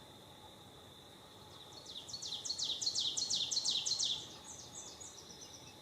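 A songbird sings a fast series of sharp down-slurred notes starting about two seconds in, then trails off into a few fainter, higher notes. A steady high-pitched drone runs underneath.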